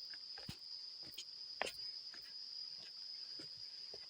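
Insects calling in a steady, unbroken high-pitched drone, with a few footsteps on the trail.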